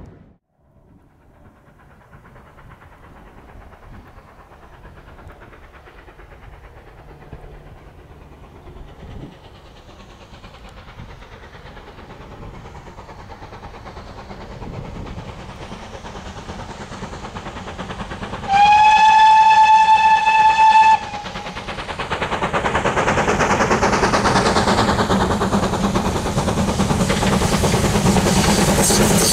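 Steam locomotive whistle, one long single-note blast about two-thirds of the way through, as a train approaches on a heritage line. The train's running noise then builds and becomes loud as it draws near.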